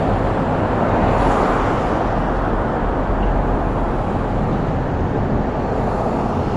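Steady road noise from riding an electric rental scooter along a street, wind on the microphone and passing traffic blending into a continuous low rumble.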